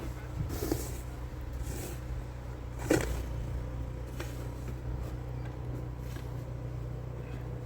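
A steady low mechanical hum with a few short scraping swishes over it, the loudest about three seconds in.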